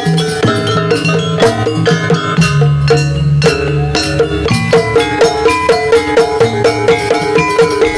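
Javanese jaranan (kuda lumping) gamelan-style music: struck tuned metal percussion ringing over drum strokes in a steady beat of about three strikes a second.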